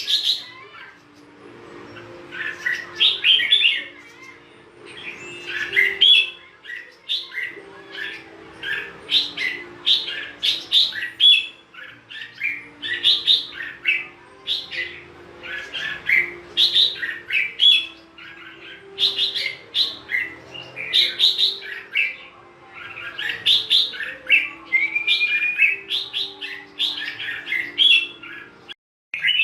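Red-whiskered bulbul singing: short, bright, warbling phrases repeated every second or so, over a faint steady hum. The song breaks off for a moment near the end.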